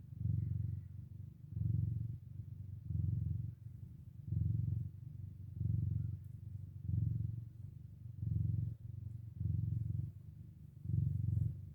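Cat purring close up, a low rumble that swells and eases in an even rhythm, about once every second and a half.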